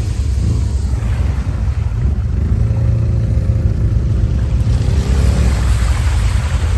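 ATV engine running under load, its revs swelling and easing off through the middle.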